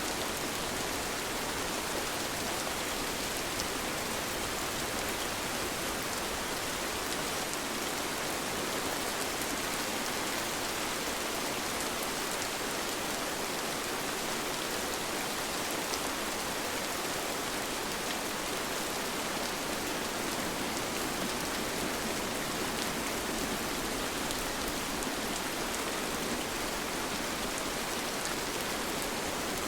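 Steady, gentle rain falling: an even hiss with faint scattered drop ticks.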